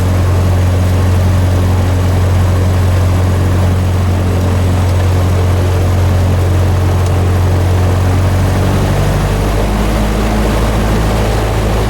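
Cessna 150's four-cylinder air-cooled engine and propeller running steadily at low power after start, heard from inside the cabin; the engine note changes slightly about nine seconds in.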